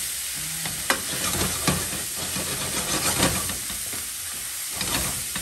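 Minced chicken sizzling in a non-stick frying pan as it is stirred, with a few sharp knocks of the utensil against the pan.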